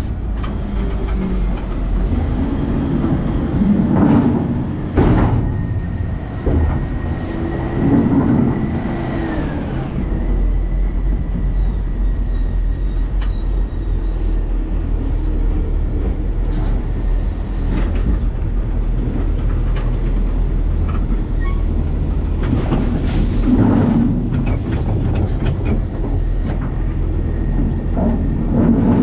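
New Way Sidewinder side-loading garbage truck heard from inside its hopper: a steady heavy rumble of engine and machinery, with several sharp knocks and bangs. A steady high whine sounds for a few seconds and drops away about nine seconds in.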